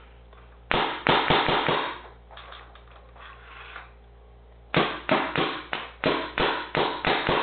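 PM8 paintball marker firing: a quick string of shots about a second in, then after a pause a steadier string of about nine shots, roughly three a second. Each crack is loud and echoes off the walls of a small room.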